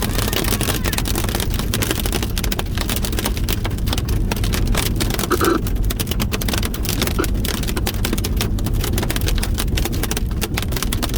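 Hail and rain pelting a moving vehicle, a dense, irregular clatter of hits over steady road rumble.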